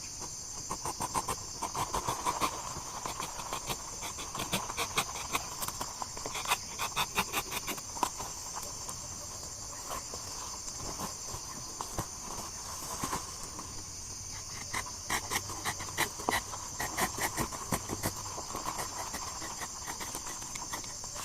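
Steady high-pitched chorus of crickets and other insects, with many short irregular clicks and rustles over it.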